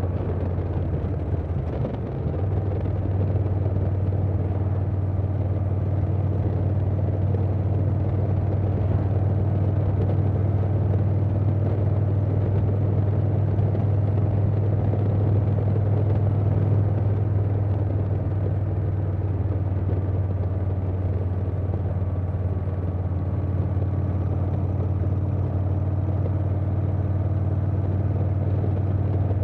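Harley-Davidson Softail's Milwaukee-Eight V-twin running at a steady cruise through a Vance & Hines Big Radius 2-into-2 exhaust, with a deep steady drone and wind noise. The engine note dips briefly about two seconds in, then holds steady.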